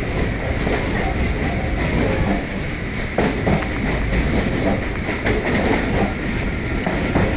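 Electric multiple-unit suburban train running along the line, a steady rumble of the coach with wheels clacking over rail joints a few times, around three seconds in and again near the end.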